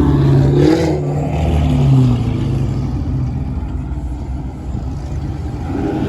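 Loud car engine revving, its pitch climbing to a peak about two seconds in and then falling away to a lower, steady run.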